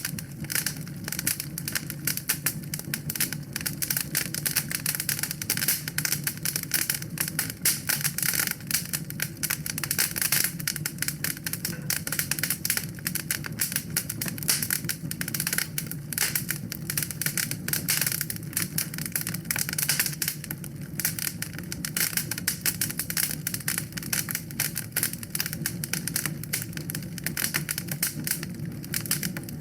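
Wood fire burning in a fireplace, crackling with a dense, irregular stream of sharp snaps and pops over a steady low rumble of flame.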